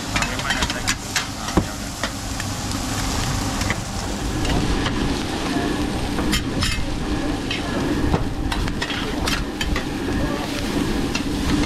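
Fried radish cake sizzling in a large, shallow flat wok while two metal spatulas chop, scrape and clack against the pan in an irregular rhythm.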